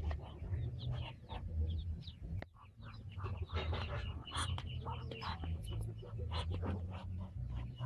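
Birds chirping and calling in many short, quick notes over a low rumble.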